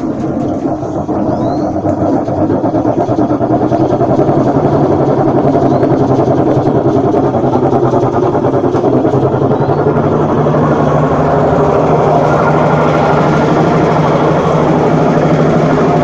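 Washing machine running, its motor and drum getting louder over the first few seconds and then holding a steady, loud whir with a low hum, likened to an airplane.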